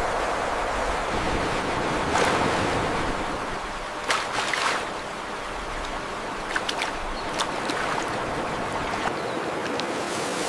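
Steady rush of flowing river water, with a few light clicks and crackles about four seconds in and again a few seconds later.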